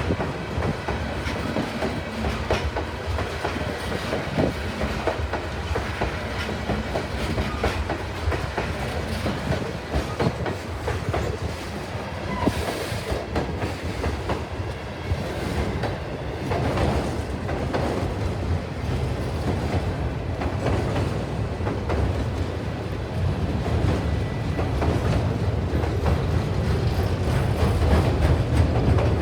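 A train's cars rolling past, their wheels clicking steadily over the rail joints, with a low rumble that grows louder in the last few seconds.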